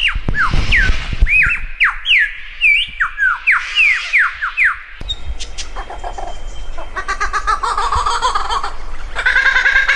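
A bird calling in a rapid series of sharp whistled notes that sweep steeply in pitch. About halfway through the sound changes abruptly to a fast, rhythmic chattering that resembles clucking.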